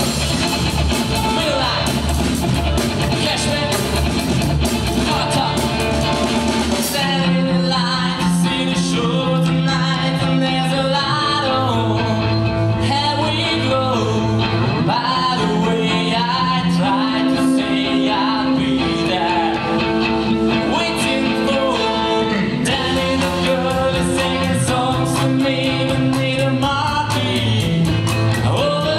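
Rock band playing a song with a singer, electric guitar, bass and drums. The full band with a busy cymbal wash drops about seven seconds in to a sparser passage of held bass notes under the vocal and guitar lines, and the full band with cymbals comes back in a few seconds before the end.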